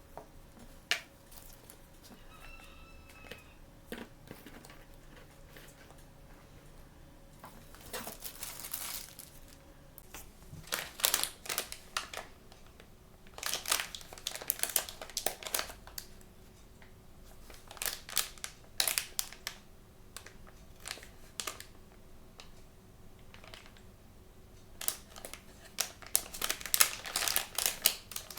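Blind-bag toy packaging being handled and opened: bursts of crinkling and tearing of plastic or foil wrapping, in several spells with pauses between.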